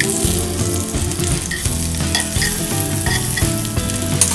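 Beef-mince-stuffed bitter gourds sizzling as they shallow-fry in a little oil in a small pan, with a few light clicks of tongs turning them.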